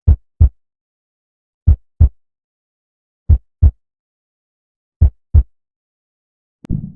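Heartbeat sound effect: four low double thumps, about one and a half seconds apart, with dead silence between them. A sharp click comes near the end.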